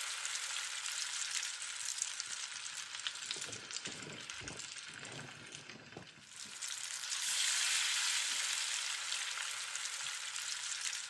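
Chopped onion and garlic frying in sunflower oil in a pan, a steady sizzle that dips about halfway and comes back stronger soon after.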